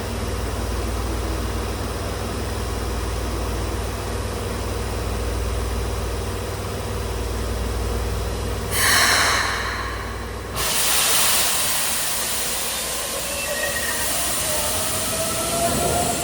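Electric train sounds: a steady low hum, then a loud hiss lasting under two seconds about nine seconds in. After an abrupt change, a train runs with a broad rushing noise and thin whining tones that rise in pitch, typical of an accelerating electric train's motors.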